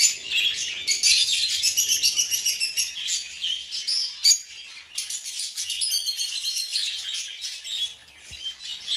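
A flock of budgies chirping and chattering continuously, many calls overlapping, thinning briefly near the end.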